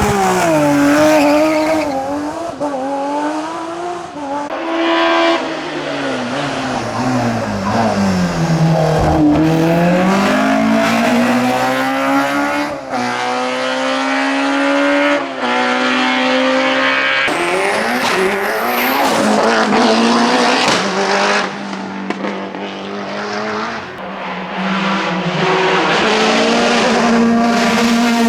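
Racing car engine at full load, revving up through the gears with a sharp drop in pitch at each upshift, and dropping lower where it slows for corners before pulling hard again.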